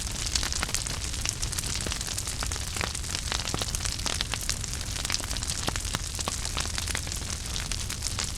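Wood fire in a fireplace burning steadily, with frequent sharp crackles and pops over a low, even rumble.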